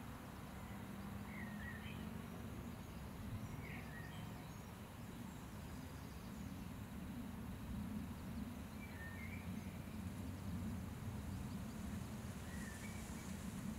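Steady low outdoor rumble with four short bird chirps spread through it, each a quick up-and-down note.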